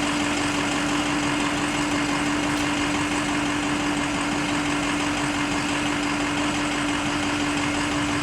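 Bucket truck engine idling at a steady speed, with an even hum that never changes pitch.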